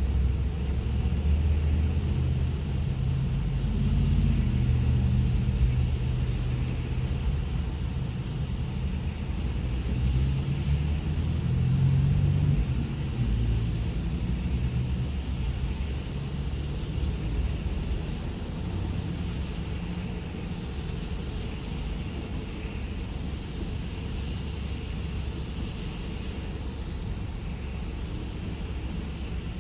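Low, steady rumble of a car's engine and tyres on wet pavement, heard from inside the closed cabin, louder in the first half and easing off after about thirteen seconds.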